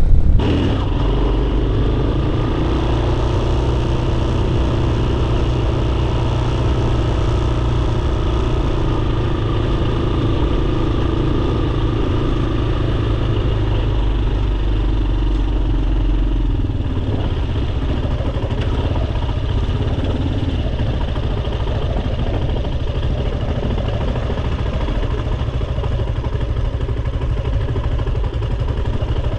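Dirt bike engine running steadily as the bike is ridden, with a heavy low rumble that eases a little about two-thirds of the way through.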